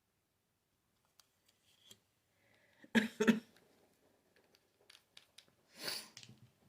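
Nail polish bottles and brush being handled: scattered small clicks and taps, two sharp knocks close together about three seconds in, and a short hiss about six seconds in.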